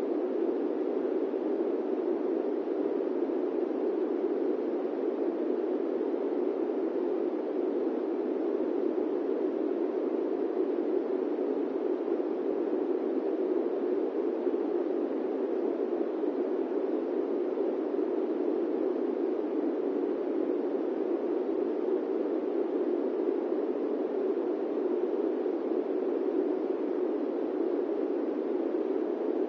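Steady airplane-cabin white noise: an even, low rushing noise that holds unchanged throughout, with no tones or separate events.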